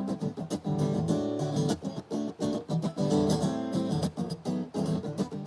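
Acoustic guitar strummed in a steady rhythm, chords played between sung verses with no voice.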